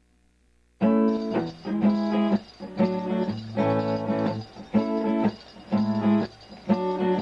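Guitar strumming chords in a steady rhythm, starting about a second in: the instrumental intro to a song.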